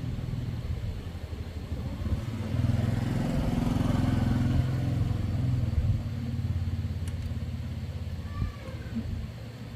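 Yamaha Exciter 125cc motorcycle engine running, its revs rising a couple of seconds in and dropping back a few seconds later.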